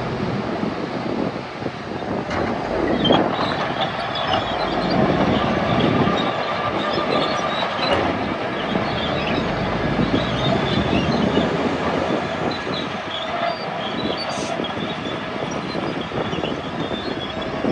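Crawler bulldozer at work: a diesel engine running under a constant clatter of steel tracks, with scattered high squeals from the undercarriage.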